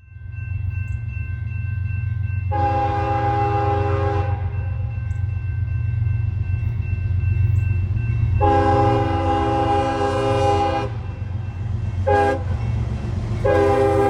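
CSX freight locomotive horn sounding the grade-crossing signal (long, long, short, long) over the steady low rumble of the approaching train's diesel engines. The last long blast starts near the end.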